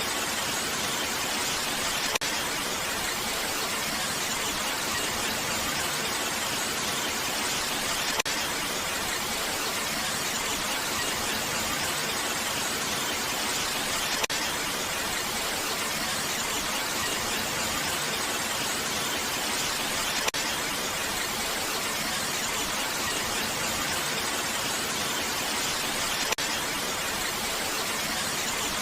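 Steady, even rain noise with no change in strength, and a faint click about every six seconds.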